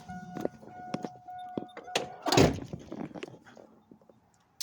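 A few light clicks over a steady two-note electronic tone, then a car door shutting with a single thunk a little over two seconds in.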